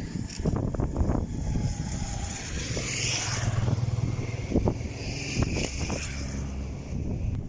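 A motor vehicle's engine hum, swelling about two and a half seconds in and fading near the end, with short knocks scattered throughout.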